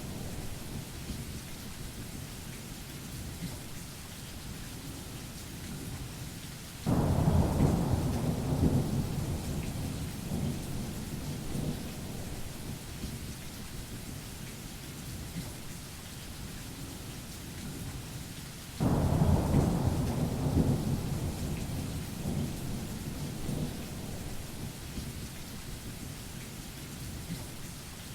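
Steady rain with two loud claps of thunder, one about a quarter of the way in and one about two-thirds in, each rumbling away over several seconds.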